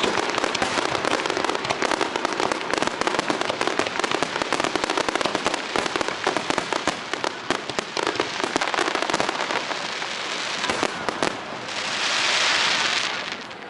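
Aerial fireworks crackling densely: a rapid, continuous stream of small pops for about eleven seconds. Near the end a smooth hiss swells and fades.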